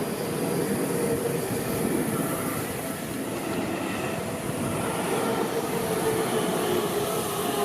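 A Seibu Ikebukuro Line train running past: a steady rumble of wheels on rails with a faint whine held throughout.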